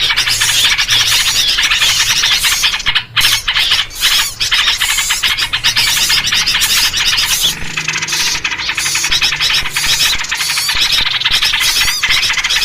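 Dense, loud chatter of many small birds calling over one another without a break, a noisy bird-lure chorus in the sooty-headed bulbul (trucuk) version. There is a brief lull about three seconds in.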